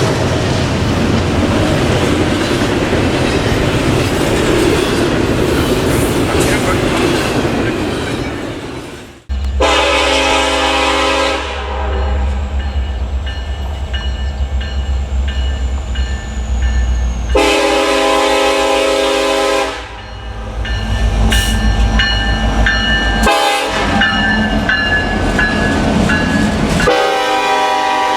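Train rolling past with steady wheel and rail noise, then, after an abrupt cut, a diesel locomotive's air horn sounding in blasts of about two seconds each over a low engine rumble. Another horn blast starts near the end.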